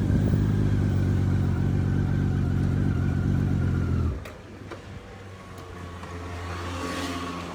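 Honda Valkyrie's flat-six engine idling steadily. About four seconds in the sound drops off abruptly, leaving a fainter low hum, with a swell of rushing noise near the end.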